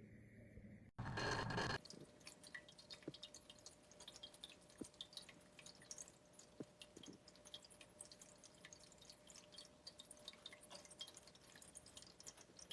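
Pioneer Pet Raindrop ceramic pet drinking fountain with water dripping and trickling in many small drops, over a faint steady hum. About a second in there is a brief, louder rush of noise.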